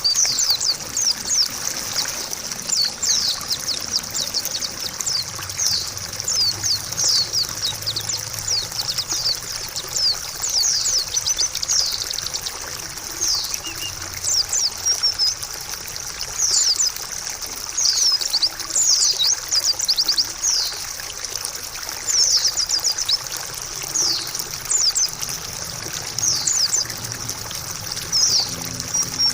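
White-eye (pleci) song: quick runs of high, thin twittering notes, phrase after phrase, over a steady trickle of running water.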